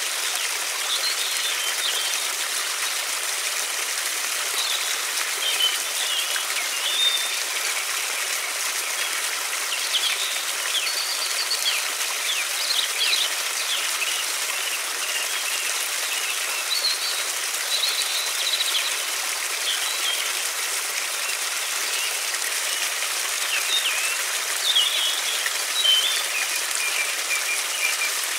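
Steady rushing of a river or stream, with small birds chirping and trilling on and off over it.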